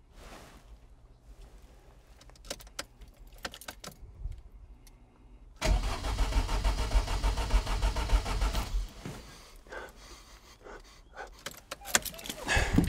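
MG TF engine being cranked by its starter motor for about three seconds. The cranking starts suddenly about halfway through and stops; the engine tries to catch but does not start, a no-start that the owner wonders may be a crank sensor fault. A few faint clicks come before it.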